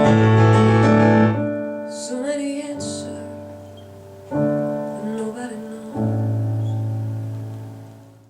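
Closing bars of a slow piano ballad: held piano chords, a few more struck chords and a last sung phrase from a woman, then a final chord ringing and fading away.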